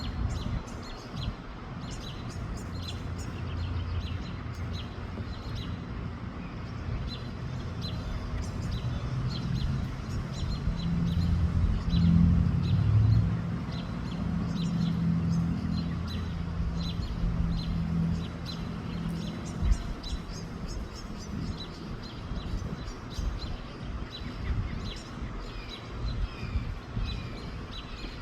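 Small birds chirping in quick, repeated short notes, over a low rumble of wind on the microphone. A low steady hum swells in the middle, loudest about twelve seconds in, then fades.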